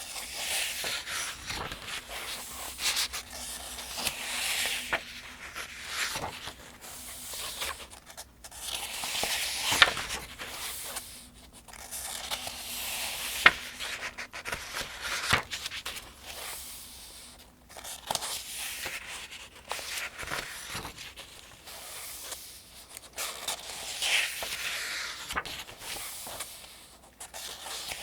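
Paper pages of a Farmers' Almanac being turned one after another, a rustling swish every couple of seconds. Two crisp snaps of paper stand out, about a third of the way in and about halfway.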